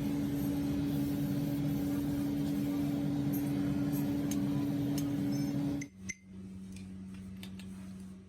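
A workshop machine's electric motor running with a steady hum. About six seconds in it cuts out suddenly, leaving a quieter, lower hum and a few light clicks.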